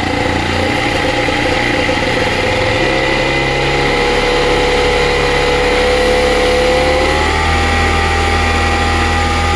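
Vittorazi ATOM 80 78cc two-stroke paramotor engine running steadily on a tuned expansion-chamber exhaust. Its speed steps up about three seconds in and again about seven seconds in. It runs smoothly through the mid range, where it used to spike, now that the ignition timing has been advanced.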